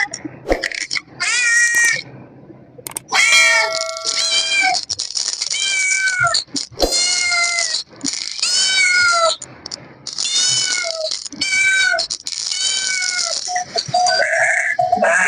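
Kittens meowing repeatedly, about a dozen short calls, each rising and falling in pitch.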